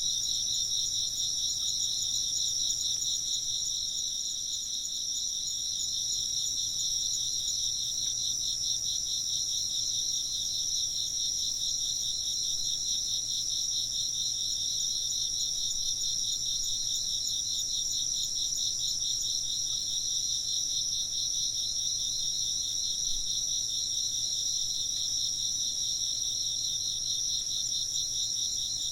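A chorus of crickets chirping without a break, two overlapping high-pitched trills that hold steady throughout.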